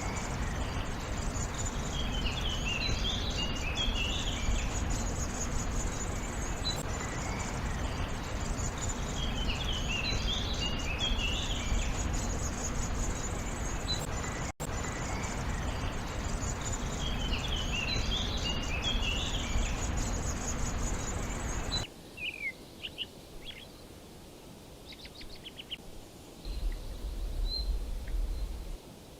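A songbird singing a short burst of quick high notes that repeats about every seven to eight seconds, over a steady hiss of outdoor background noise. About two-thirds of the way through the hiss stops, leaving only a few scattered short chirps.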